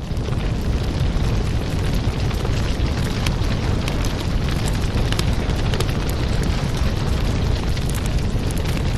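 Wood fire crackling, with frequent sharp pops and snaps over a steady low rumble of burning.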